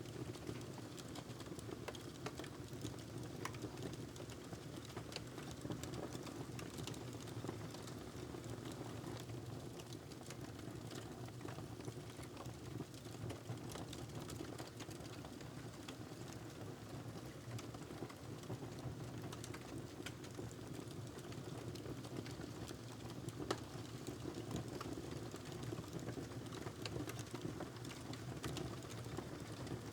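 Fireplace wood fire crackling: irregular small pops and snaps over a steady low rumble, with one sharper pop about two-thirds of the way through.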